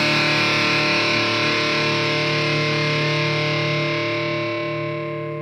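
Distorted virtual electric guitar (Ample Metal sample instrument) holding a final chord that rings out and fades slowly, with no drums.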